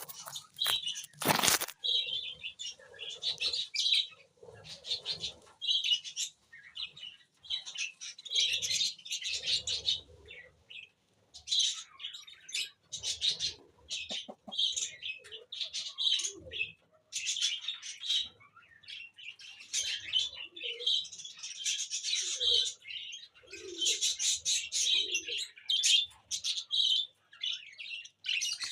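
Small pet birds chirping and chattering continuously in quick, repeated bursts. There is one brief loud crackle about a second in.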